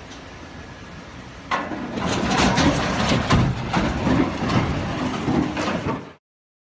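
A low steady rumble, then about a second and a half in a sudden loud crash followed by a run of clattering, banging impacts lasting several seconds, which cuts off abruptly.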